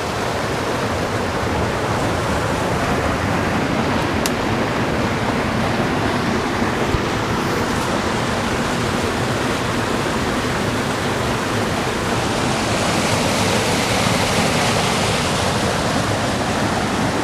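Fast-flowing river water rushing steadily over rocks, growing a little louder and hissier about twelve seconds in.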